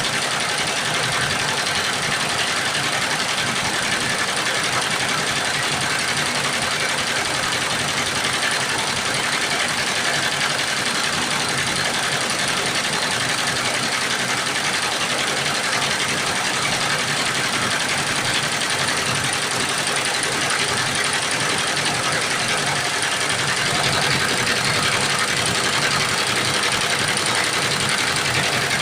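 Computer embroidery machine running steadily as it stitches, a continuous mechanical drone that gets slightly louder late on.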